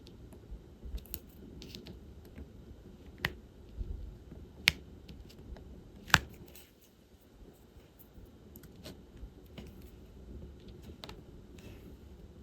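Irregular small, sharp plastic clicks and taps of diamond painting work: a drill pen picking up resin drills from a tray and pressing them onto the canvas. Two louder clicks come near the middle, and the taps are sparser after them.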